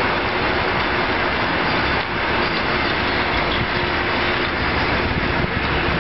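Passenger coaches of a departing train rolling past at low speed, their wheels running on the rails with a steady, even rumble.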